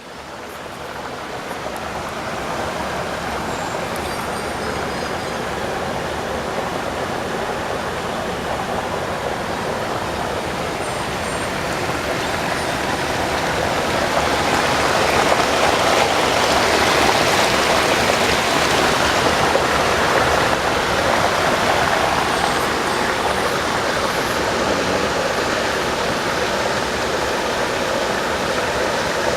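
Water rushing steadily, like a stream or waterfall, with a constant hiss that swells a little louder midway and settles again.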